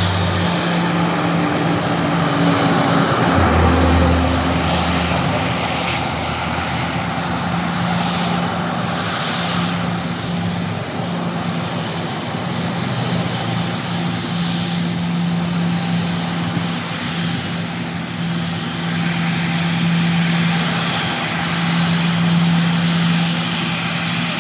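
Airplane engines running steadily: a constant low hum under a broad rushing noise, with a brief deeper rumble about four seconds in.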